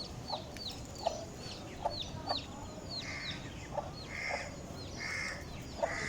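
Aseel chicks peeping: a steady run of short high peeps, each falling in pitch, about two a second, mixed with short lower clucking calls.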